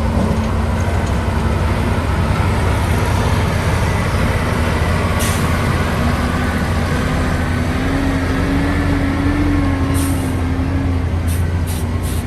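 Heavy diesel construction machinery running steadily, its engine note rising slightly and settling back in the second half. Short hisses come once midway, once about ten seconds in, and several times near the end.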